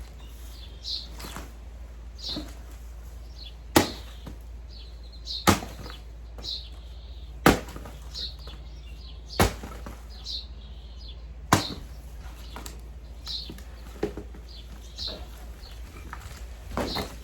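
A chopping tool striking flood-soaked wooden furniture: five heavy blows about two seconds apart, with a few lighter knocks between them.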